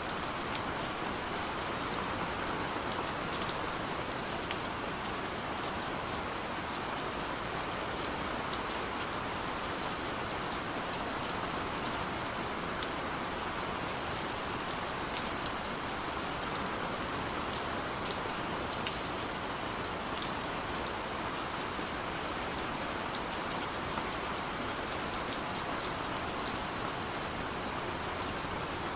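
Steady gentle rain falling, an even hiss with scattered sharp ticks of individual drops hitting a surface.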